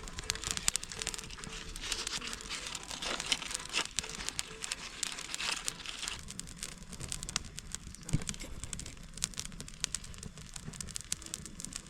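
Dense, irregular crackling and crinkling made of many sharp clicks.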